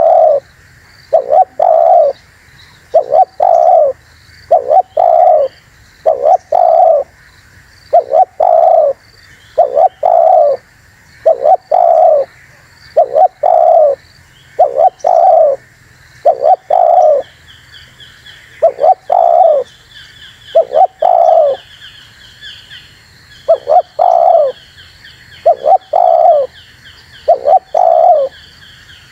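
Spotted dove cooing over and over: short low coos, mostly in pairs, about every two seconds. From about halfway through, a small bird's fast, high chirping joins in.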